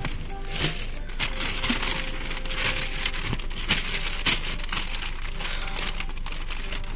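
Wrapping paper crinkling and rustling in irregular crackles as it is handled.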